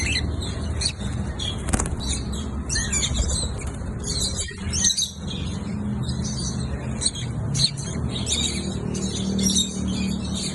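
Lovebirds chirping in a rapid, continuous high-pitched chatter.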